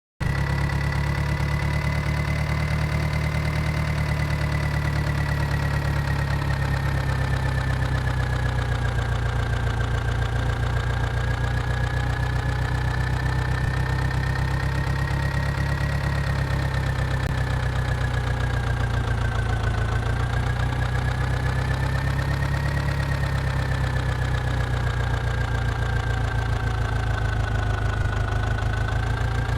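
Powertrac tractor's diesel engine idling steadily, with a high whine above the engine drone that drifts slowly in pitch.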